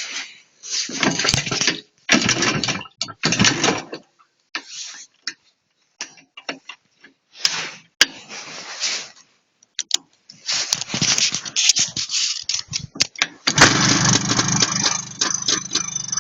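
IZh Planeta 5 motorcycle's single-cylinder two-stroke engine being started: a string of short bursts as it is turned over and fires briefly, then it catches about 13–14 seconds in and keeps running steadily.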